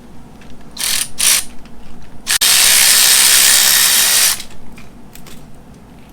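Cordless power tool unscrewing the 13 mm engine-harness ground bolt on an LS V8: two short blips of the trigger, then a click and one steady run of about two seconds that stops suddenly.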